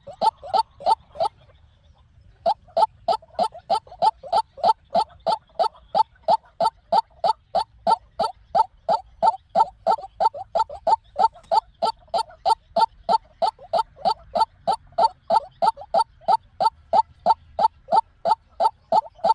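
White-breasted waterhen calling: a long run of short, evenly repeated notes, about three a second, with a pause of about a second near the start.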